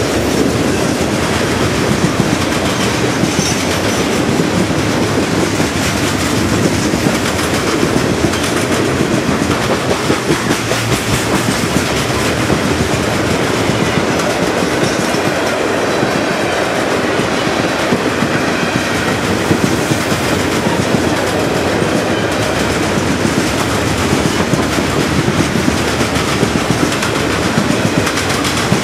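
A CSX freight train's open-top hopper cars rolling past on the rails: a loud, steady rumble and clatter of steel wheels on track that keeps going without a break.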